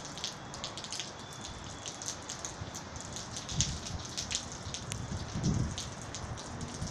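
Heavy monsoon rain falling steadily, with many sharp drop hits close by, and a few brief low rumbles partway through.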